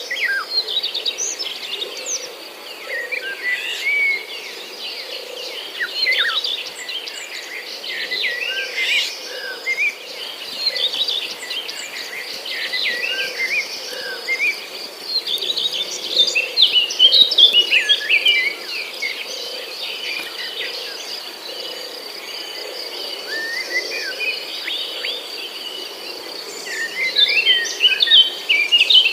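Wild birds singing and calling, with many short chirps and quick warbles overlapping, over a steady thin high tone.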